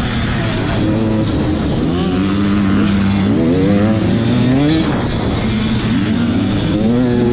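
Several 85cc two-stroke motocross bikes racing, their engines revving up and down in overlapping rising and falling pitches as they accelerate and shift.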